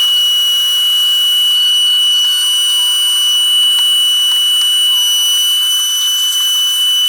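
Shop vac's motor running at full speed with a steady high-pitched whine, the vacuum working again after a burnt wire at its power switch was repaired.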